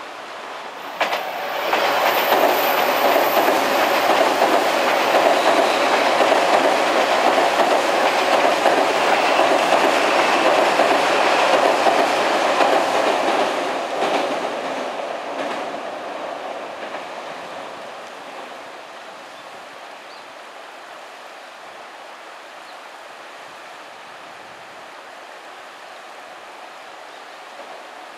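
Odakyu electric commuter train crossing a railway bridge, its wheels clattering over the rail joints. The sound comes up loud about a second in, holds for some twelve seconds, then dies away as the train passes, leaving a steady low rushing.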